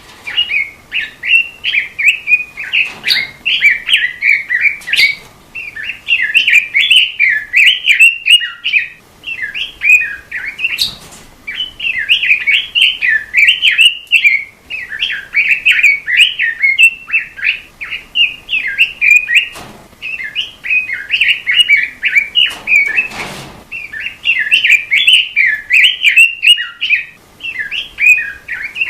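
Robin singing a fast, continuous warbling song of rapid chirping phrases, broken a few times by short pauses. A few faint knocks fall between the phrases.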